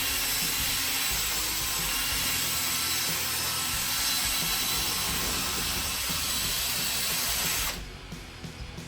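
Drill spinning a 3000-grit sanding pad against a wet plastic headlight lens, a steady whir and hiss of wet sanding that cuts off near the end.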